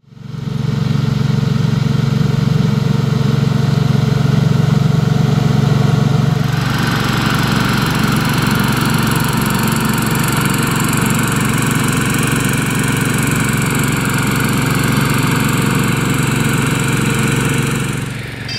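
Small quadcopter drone's rotors whirring steadily, with a higher whine joining about six seconds in.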